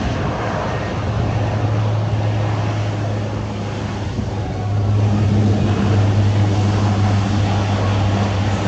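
Blue Angels C-130 Hercules 'Fat Albert' passing with its four turboprop engines and propellers, a steady low drone that grows louder about five seconds in.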